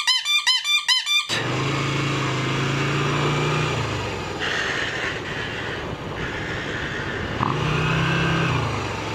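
A fast warbling pitched sound, about seven pulses a second, for the first second or so. It cuts off into a motorcycle engine running under way, its note holding steady, falling away about four seconds in, and climbing again near the end.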